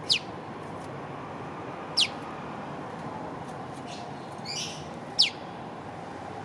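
An olive-backed tailorbird (prenjak lumut) calls its 'piw' three times, each a sharp, high whistle sweeping quickly downward, about two to three seconds apart. A softer rough chirp comes just before the third call.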